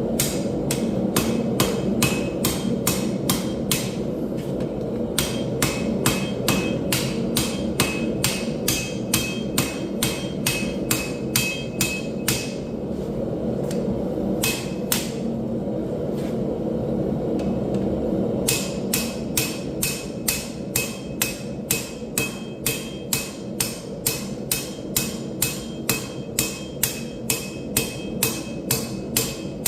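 Hammer blows on hot steel over an anvil, forging a blade, about two to three a second, each with a short metallic ring. Near the middle the hammering pauses for several seconds, broken by only a couple of blows, then resumes a little faster. A steady low rumble runs underneath.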